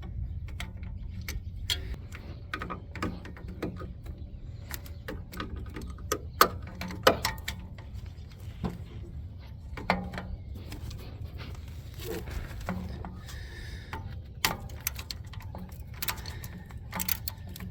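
Wrench and socket clicking and clinking on metal in irregular taps while a nut is worked on the starter's ground strap stud under a Ford F150. A steady low hum runs underneath.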